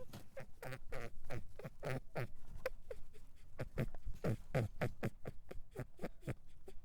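An animal making a rapid series of short calls, several a second, many of them falling in pitch.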